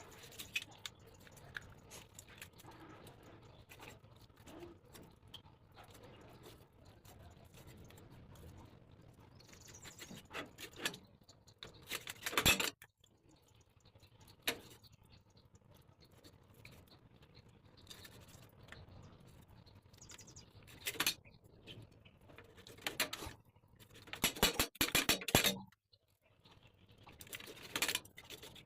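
Raw chicken being cut up by hand: scattered clicks and knocks, with several short scraping or rustling bursts, the loudest about twelve seconds in and again around twenty-four to twenty-five seconds.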